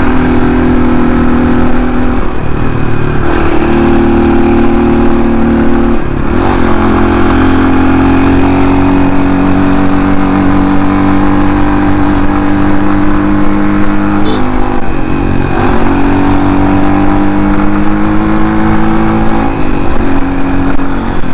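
Motorcycle engine pulling hard up a steep climb at speed, its note holding, then dropping and picking up again with several gear changes.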